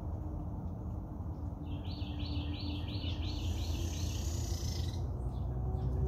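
A bird calls a quick run of about eight repeated high notes, followed by a brief high hiss, over a steady low rumble of breeze.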